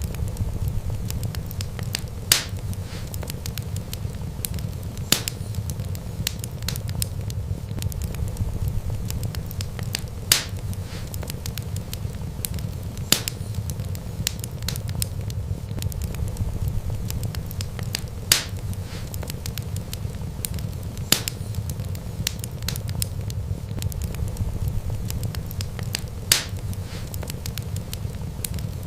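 Wood fire crackling: sharp pops every few seconds over a steady low rumble of flames.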